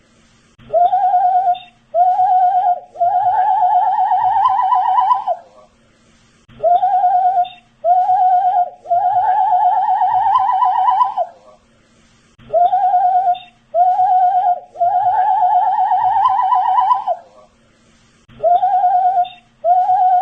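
A man whistling the same short phrase over and over, about every six seconds: two short notes, then one long wavering note that rises slightly, with a brief pause before each repeat.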